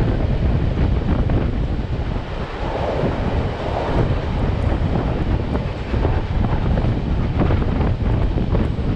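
A passenger train car rolling along the rails, with wind buffeting the microphone held outside beside the car.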